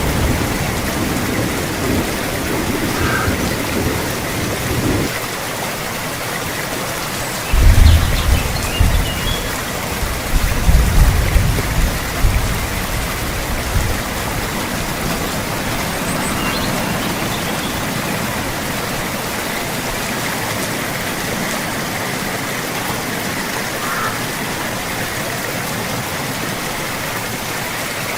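Steady rain hissing, with a low rumble of thunder that fades out about five seconds in. A louder roll of thunder comes in about seven and a half seconds in and dies away over the next five seconds.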